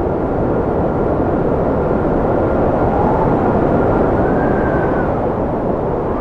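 Strong wind blowing with a steady rushing, and a thin whistle that rises in pitch and falls back about four seconds in.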